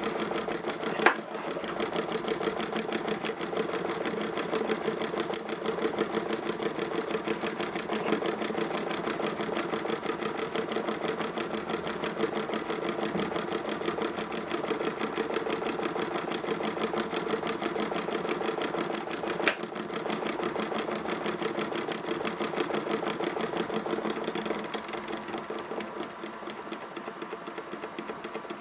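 Ernst Plank Cosmo toy vertical steam engine running fast with a rapid, even mechanical clatter. Two sharp clicks stand out, about a second in and again near twenty seconds, and it gets a little quieter over the last few seconds.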